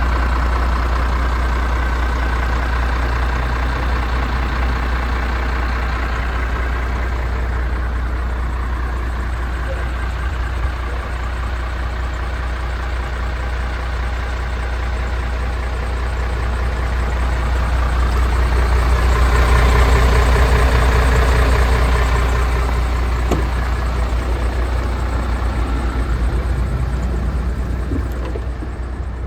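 MAN TGX 470 hp Euro 6 truck's 12.4-litre straight-six diesel idling steadily. The sound swells louder for a few seconds about two-thirds of the way through, then settles back.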